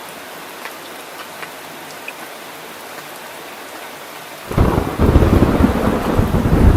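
Steady rain with scattered drop ticks, then about four and a half seconds in a loud clap of thunder breaks in suddenly and goes on rumbling low over the rain.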